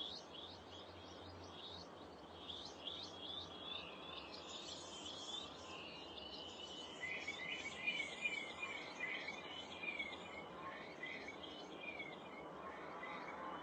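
Several small songbirds chirping and singing over one another, with a run of short, quickly repeated notes from about halfway through, over a steady background hiss.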